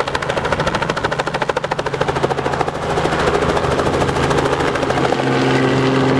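Robinson R44 helicopter running on the ground, its rotor chopping in a fast, even beat. About three seconds in the sound turns louder and steadier, with a steady hum over the rotor noise.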